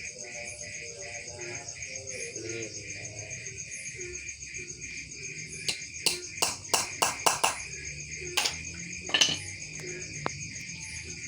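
Crickets chirring steadily, with a run of sharp taps and knocks from hand work on a wooden bird cage about halfway through and a few more later.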